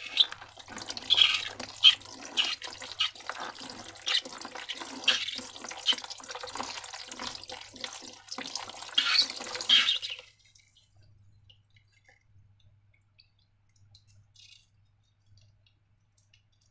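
Sticky slime squelching in a quick, irregular run of wet clicks and smacks that stops about ten seconds in.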